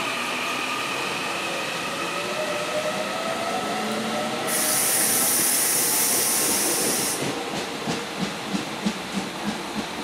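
Electric train passing along the platform: a motor whine falls in pitch, a loud hiss of air rises for a few seconds about halfway, then the wheels clack over the rail joints about three times a second.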